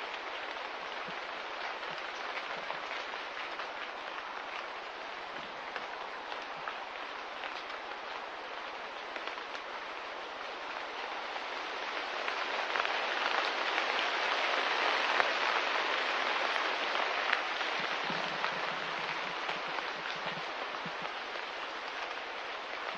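Steady rain patter with fine dripping ticks, swelling louder in the middle and easing off again.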